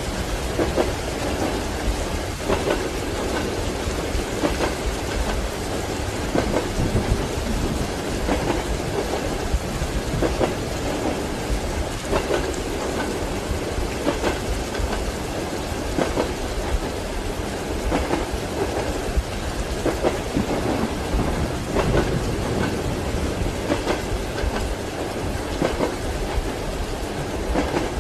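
Steady rain with thunder, mixed with a train's wheels clacking over the rail joints, a soft knock about every two seconds.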